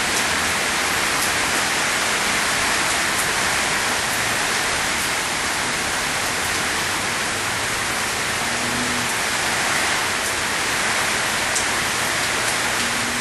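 Rain falling and floodwater running, a steady even hiss with no break.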